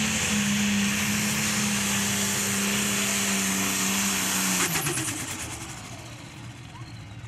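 Pro stock pulling tractor's turbocharged diesel engine running flat out at a steady high pitch during a pull. About four and a half seconds in, the pitch drops and the sound falls away as the engine is throttled down at the end of the run.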